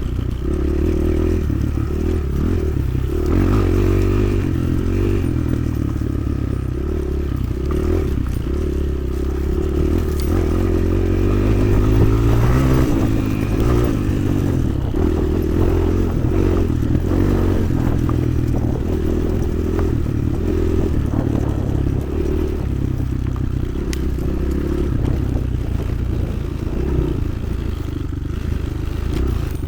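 Motoland XR 300 Lite enduro motorcycle engine running under way, its pitch rising and falling slowly as the throttle changes, with frequent knocks and rattles throughout.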